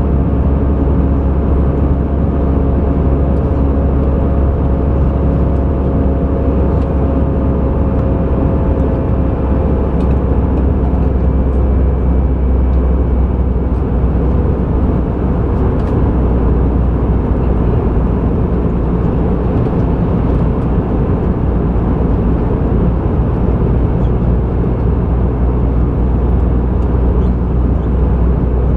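Steady, loud rumble of an Airbus A320 in flight, heard from inside the cabin: engine and airflow noise, with faint whining tones that fade out about a third of the way in.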